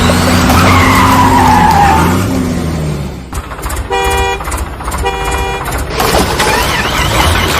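Motor vehicle engine running with squealing, gliding whines; the engine sound drops away about three seconds in, and two short horn honks sound about a second apart before it returns.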